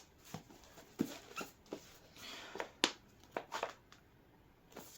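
Faint handling noise: a scatter of light knocks, taps and short rustles, with a sharp click just before the three-second mark.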